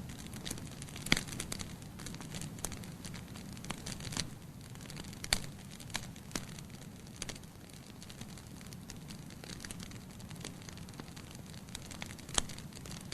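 Logs burning in a fireplace: irregular sharp crackles and pops over a steady low rumble of the flames. The loudest pops come about a second in, in the middle, and near the end.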